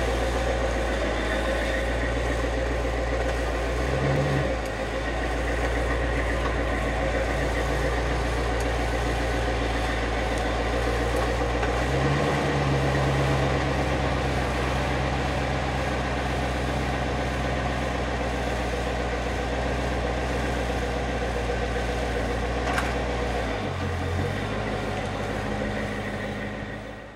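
C4 Corvette's V8 engine idling and running slowly at low speed, with the engine note shifting three times.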